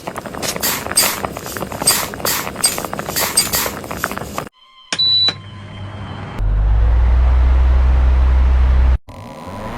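Rapid, irregular knocking and clattering for the first few seconds. After a cut comes a short high beep, then a loud, steady, low engine rumble that stops abruptly.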